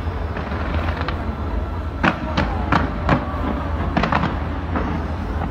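Fireworks display going off: a dense, steady low rumble of bursts, with a run of sharp bangs about every half second through the middle.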